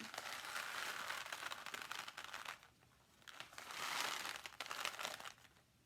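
Homemade rain stick, a paper towel tube with a scrunched aluminum foil coil inside, being tipped so its uncooked dried beans trickle down through it in a dense rainlike rattle. It runs twice, each pass about two and a half seconds, with a short pause between.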